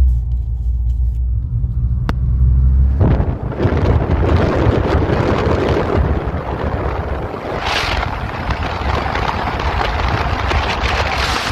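Car on the move: a low engine and road rumble, with a single click about two seconds in. About three seconds in, a loud rushing noise of wind and road joins it and carries on.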